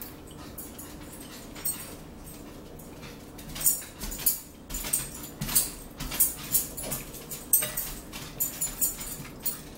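Close-up mouth sounds of a person eating fish: wet chewing and lip-smacking. About three and a half seconds in it turns into a quick run of sharp smacks and clicks that goes on until near the end.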